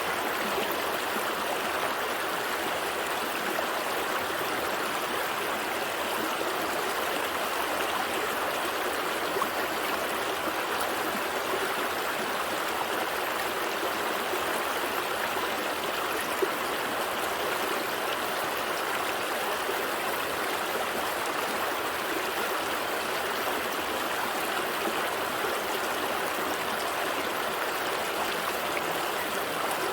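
Gentle stream flowing: a steady, even rush and babble of water.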